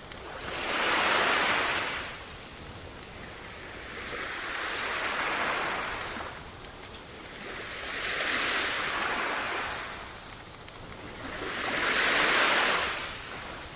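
Sea waves washing onto a beach: four slow swells of surf, each rising and falling over about two seconds, over a steady wash of water.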